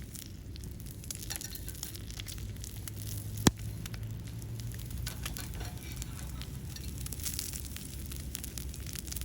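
Steak sizzling over a wood fire in a fire pit, with many small crackling ticks and one sharp snap about three and a half seconds in.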